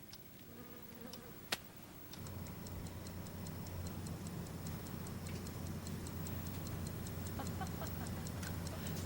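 Fast, even clock-like ticking, about five ticks a second, over a low steady hum; both come in about two seconds in. A single sharp click comes just before them.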